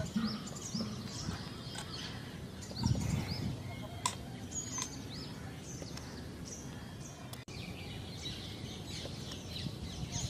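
Birds chirping in the trees, many short, quick calls throughout, over a low murmur of people's voices that rises briefly about three seconds in.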